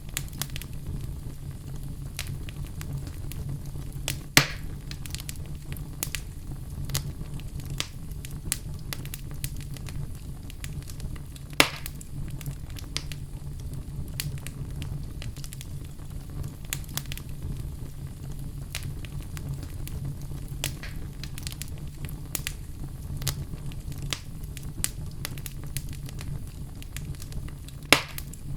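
Wood fire crackling, with frequent small pops over a steady low rumble. Three louder pops come about four, eleven and a half, and twenty-eight seconds in.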